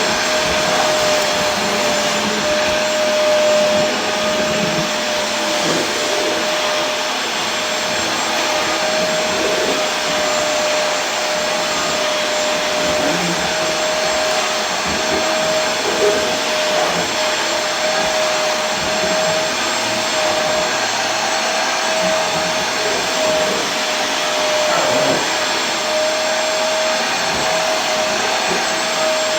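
Vacuum cleaner running continuously: a steady whooshing hiss with a constant motor whine, unchanging throughout.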